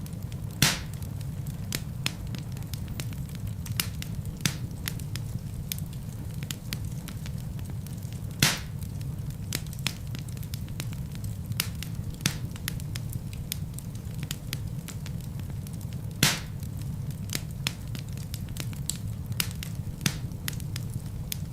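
Wood fire burning in a fireplace: a steady low rumble of flames with scattered sharp crackles, and three louder pops about eight seconds apart as the logs burst.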